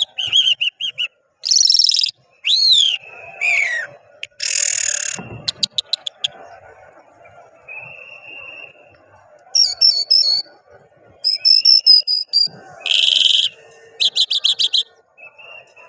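Caged lark (the 'Irani jal') singing a varied song: short phrases of trills, quick clicking series, buzzy bursts and whistled slides, separated by brief pauses.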